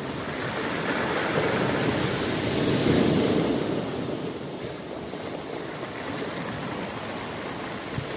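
Sea waves washing onto the shore, one surge swelling to its loudest about three seconds in and then receding.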